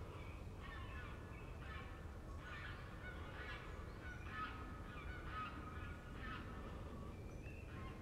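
A bird calling over and over, about a dozen short pitched notes with overtones, spaced unevenly across six seconds and stopping about a second before the end.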